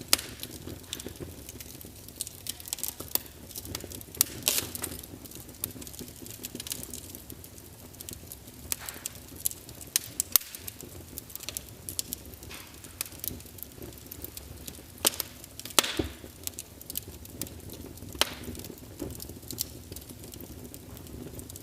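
Wood fire crackling in a fireplace: irregular sharp pops and snaps, a few louder ones, over a steady low rumble of burning logs.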